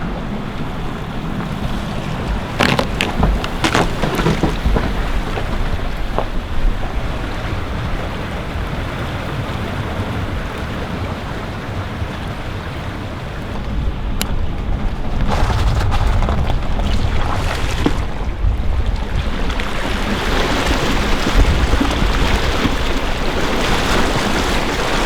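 Creek floodwater rushing over a low spot in a lane, a steady noisy wash that grows louder after about fifteen seconds, with wind buffeting the microphone.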